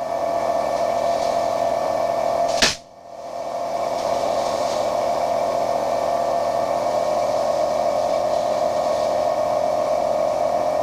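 Steady drone of a light aircraft's engine running on the ground, heard inside the cabin. About three seconds in there is a sharp click, then a brief drop in level before the drone comes back.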